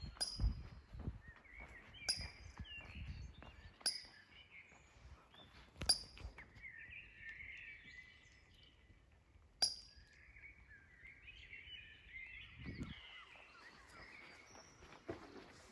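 Birds calling and singing: a sharp, high call note repeats five times, roughly every two seconds, and stretches of twittering song run between the calls. Low thumps in the first few seconds sound like footsteps.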